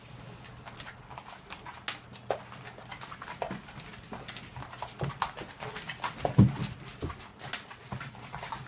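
A dog moving and making noise, with irregular clicks and taps throughout and a louder thump about six and a half seconds in.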